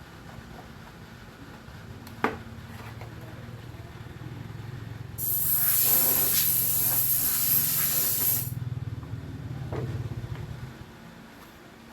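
A low hum, a single sharp click about two seconds in, then a loud spray hiss that starts suddenly about five seconds in and cuts off after about three seconds.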